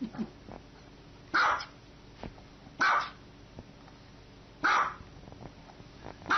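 Small white dog barking: short single barks about every one and a half seconds, four in all, the last right at the end.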